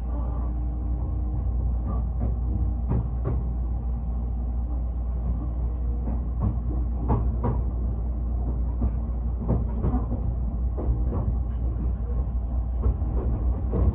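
Odakyu Romancecar express train running along the line: a steady low rumble with irregular clicks and knocks from the wheels on the track.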